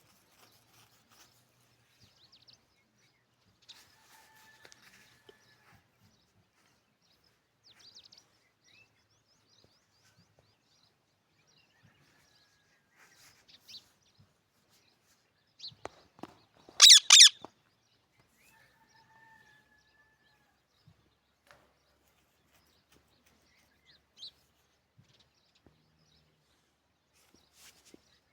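Parrots calling: faint scattered chirps and short whistles, and about halfway through a loud, harsh double screech.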